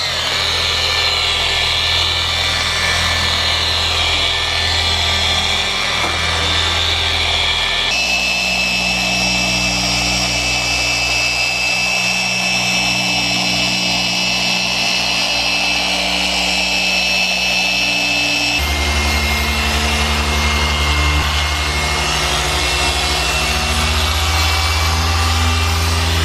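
Electric car-polishing machine running steadily with a motor whine and low hum. The sound changes abruptly twice as different polishing passes are cut together.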